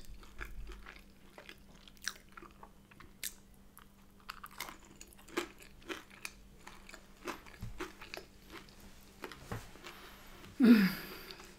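Mouth sounds of a person chewing a soft brioche bagel with bacon and cream cheese: scattered soft wet clicks and smacks. About a second before the end comes a short, louder vocal sound that falls in pitch.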